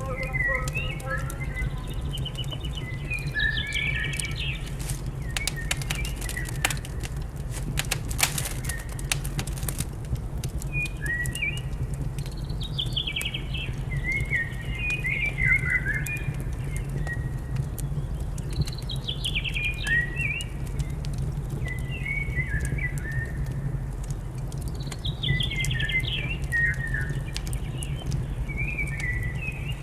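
A songbird singing short, quick phrases that drop in pitch, repeated every few seconds. Underneath are crackles, thickest about six to ten seconds in, and a steady low hum, from a fireplace fire.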